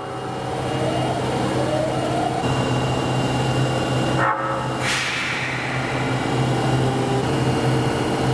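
Osaka Metro New 20 series subway train running, with a steady low hum and a motor whine rising in pitch between one and two seconds in as the train accelerates. The sound changes abruptly about two and a half and four and a half seconds in.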